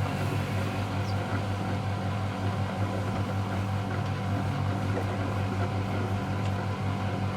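Miele Novotronic W715 washing machine running with a steady, even hum.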